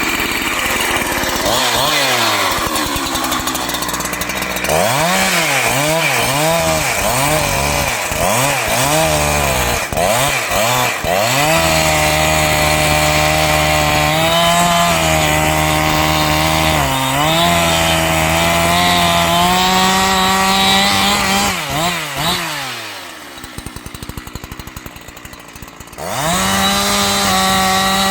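Two-stroke chainsaw revving up and down in a string of quick blips, then held at high revs for about ten seconds. About 23 seconds in it drops back to idle, quieter with a pulsing beat, and near the end it is revved high again.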